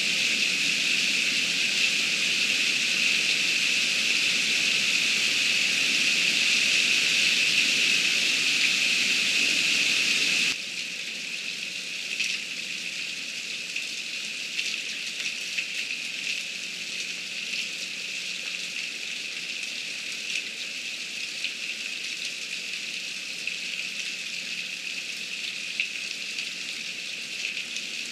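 Heavy rain falling, a steady hiss. About ten seconds in the level drops suddenly, and softer rain continues with scattered drop ticks.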